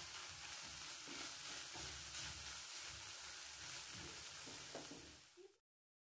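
Ground beef and green onions sizzling in a frying pan while a wooden spatula stirs and scrapes through them, with repeated soft scrapes and knocks over a steady hiss. The sound fades and cuts off abruptly shortly before the end.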